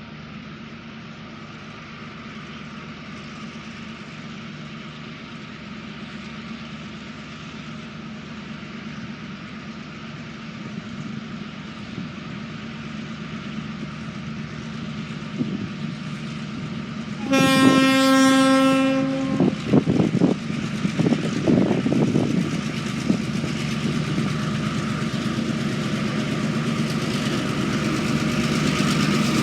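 Three DQ-class diesel locomotives hauling a loaded ore train, their engines growing steadily louder as they approach. Past the middle, one horn blast of about two seconds, followed by a few seconds of sharp knocking from the wheels and wagons.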